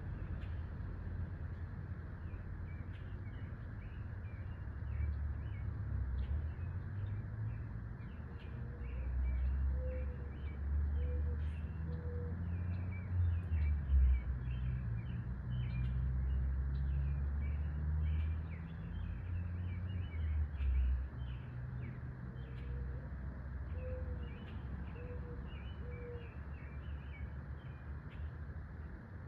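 Many small birds chirping continuously, while a dove coos a slow series of four low notes twice, once about a third of the way in and again near the end. Under them runs a low rumble that swells in the middle.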